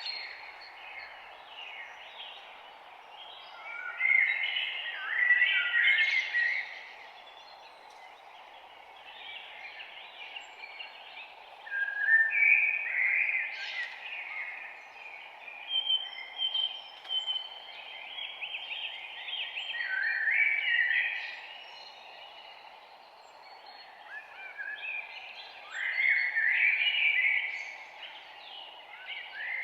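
Several songbirds singing in bursts of quick chirping phrases, with pauses between them, over a steady background hiss.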